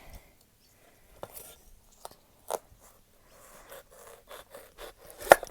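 Knife cutting into the tough rind of a mature seed zucchini: a few sharp crunching cracks and some scraping as the blade works through, with the loudest crack near the end.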